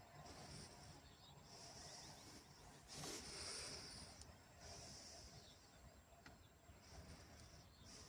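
Near silence, with faint soft hissing swells about every second and a half and a faint, steady, high-pitched whine.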